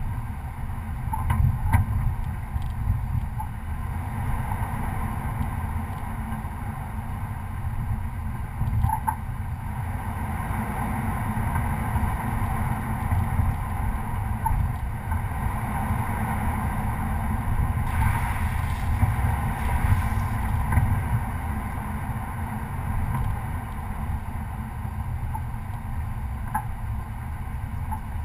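Chevrolet Colorado pickup truck driving over a rough trail: a steady low rumble of engine and drivetrain, with a few brief knocks.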